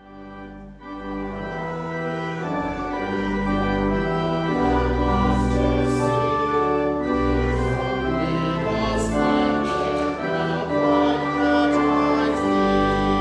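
Organ playing slow, sustained chords over a bass line that changes every second or so, starting from silence.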